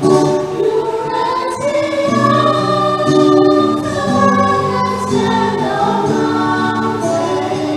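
Choir singing a hymn over a steady instrumental accompaniment.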